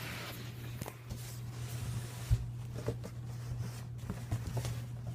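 Cardboard box being handled and set aside, with scattered rustles and knocks and one sharp thump a little over two seconds in, over a steady low hum.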